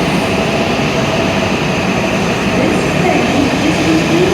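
E7 series Hokuriku Shinkansen train at the platform, a loud, steady rumble and hiss of train noise. A faint voice runs underneath it in the second half.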